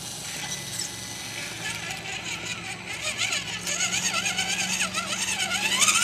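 Electric motor and gears of a radio-controlled rock crawler whining, the pitch rising and falling with the throttle, getting louder and busier toward the end.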